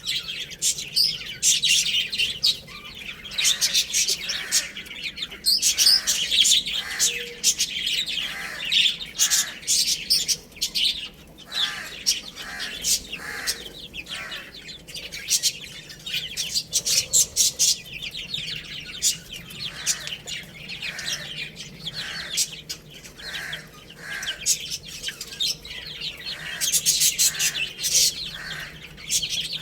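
A group of baby chicks peeping continuously, many short high chirps overlapping.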